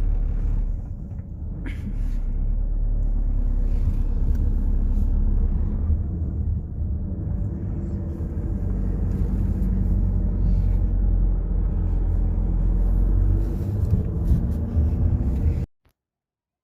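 Steady low rumble of road and engine noise inside a moving car's cabin; it cuts off suddenly near the end.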